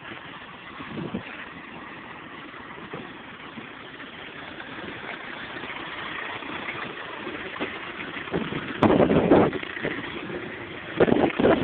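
Range Rover 2.5 turbodiesel engine running as the truck crawls over rough, muddy off-road ground, growing louder through the second half with loud stretches near the end.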